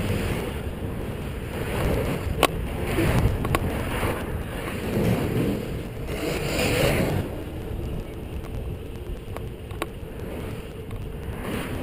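Wind rushing over the microphone of a camera on a moving bicycle, swelling and easing, with a few sharp clicks.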